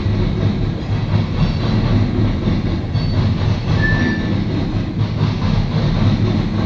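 Cars of a loaded coal train rolling past, with a steady low rumble and the clatter of steel wheels on the rails. A short faint squeal comes about four seconds in.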